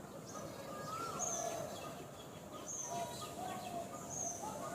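Birds calling: short, high, falling chirps that repeat about every second and a half, mixed with lower whistled notes, over a steady outdoor background hiss.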